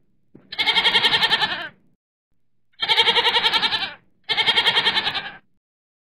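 Goats bleating: three loud, quavering bleats of about a second each, with short pauses between them.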